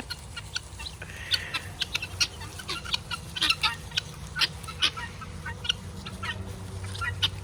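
A flock of guinea fowl calling: short, sharp chirps and clucks come several times a second from different birds, at uneven intervals.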